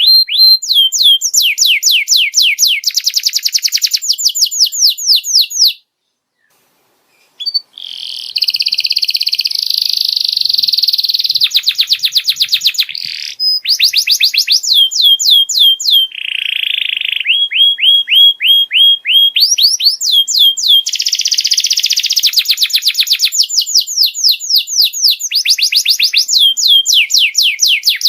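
Domestic canary singing a run of fast trills, each a rapid string of high notes that sweep downward, one trill after another. The song breaks off for about a second and a half near the quarter mark, then goes on.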